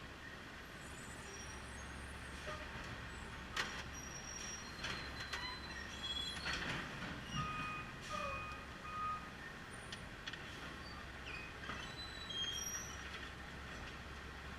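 Garbage truck working in the street: a steady low engine rumble, with several sharp knocks and clatter and scattered short high chirps over it.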